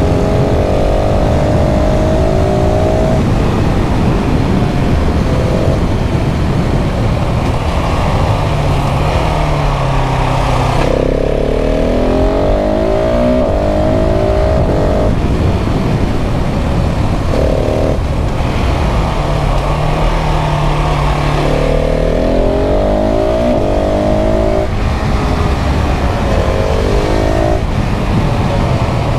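KTM 690 SMC R's single-cylinder engine pulling and rolling off on the road, its pitch repeatedly climbing and then falling away. Heavy wind rumble over the microphone runs underneath.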